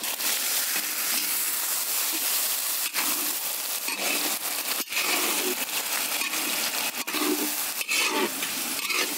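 Chopped tomatoes sizzling steadily in hot oil in a large metal kadai, stirred with a metal spatula.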